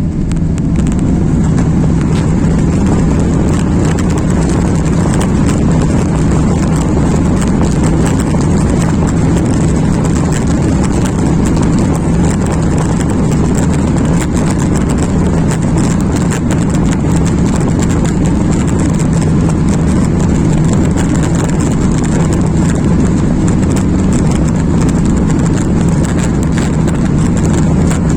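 Airliner jet engines running at takeoff power: a loud, steady rush with a deep hum, and many small knocks and rattles running through it.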